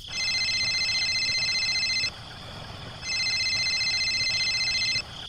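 Electronic ringing tone sounding twice: two rings of about two seconds each, a second apart, each with a fast warble.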